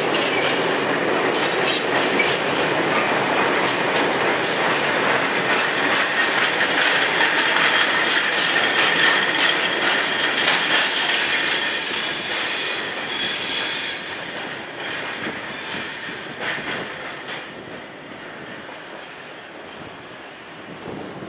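A stone train's hopper wagons rolling past at speed, their wheels clattering over the rail joints with a high-pitched wheel squeal. About two-thirds of the way through, the sound begins to fade as the last wagons pass and recede.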